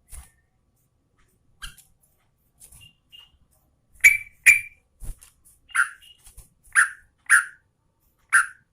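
Sooty-headed bulbul (trucukan) calling: a string of short, sharp notes, the two loudest about four seconds in, followed by four notes that each drop in pitch, spaced half a second to a second apart.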